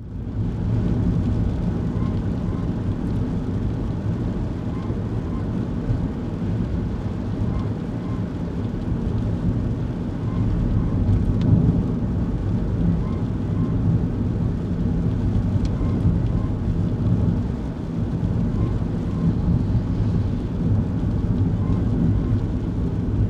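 Cabin sound of a kei car driving in the rain: a steady low rumble of engine and tyres on the wet road. A faint short chirp repeats every few seconds.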